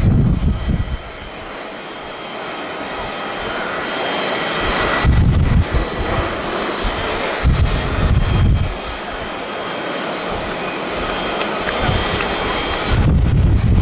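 Jet airliner engines heard as a plane takes off or lands, a steady rushing that swells about four to five seconds in. Strong gusts of wind buffet the microphone several times.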